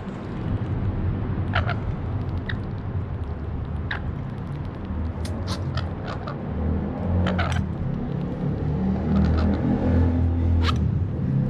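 Parrots giving short, sharp squawks, scattered irregularly and sometimes two or three in quick succession, over a steady low rumble.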